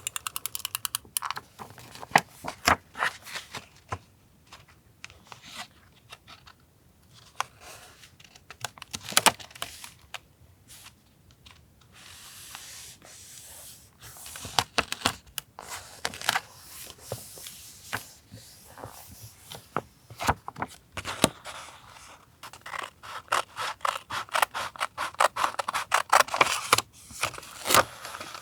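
Scissors snipping through paper in quick runs of short cuts, with paper rustling and scraping in between.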